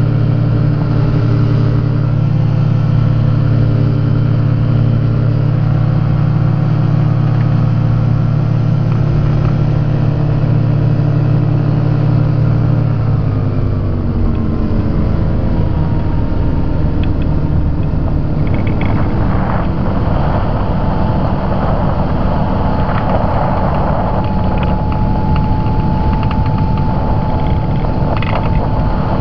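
Rotax engine of a Quad City Challenger ultralight running steadily at power, then throttled back about halfway through, its pitch gliding down. After that the engine runs low under wind rush and scattered rattles and clicks from the open-cockpit airframe.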